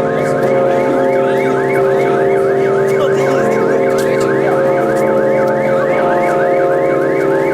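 Electronic alarm going off: a rapid warbling whoop that sweeps up and down about three times a second, over a steady hum of several lower tones. It is set as a wake-up alarm.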